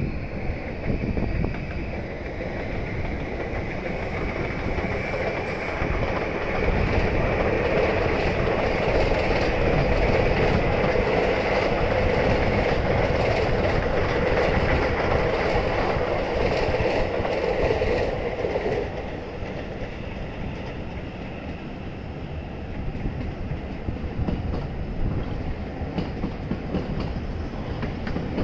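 JR train passing on the tracks below: a rolling rumble of wheels on rails that builds about six seconds in, holds loud for roughly twelve seconds, then falls back to a quieter rumble.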